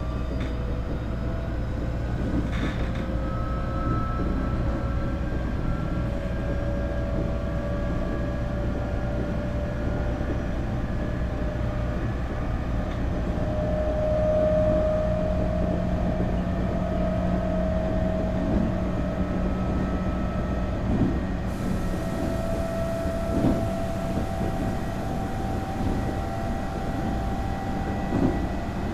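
Nankai 8300 series train running, heard aboard motor car MoHa 8361: the whine of its Hitachi two-level IGBT VVVF inverter and totally enclosed Toyo Denki TDK-6315-A induction motors climbs slowly in pitch as the train gathers speed, then holds roughly steady. Under it runs a steady rumble of wheels on rail, with a few short knocks spaced several seconds apart.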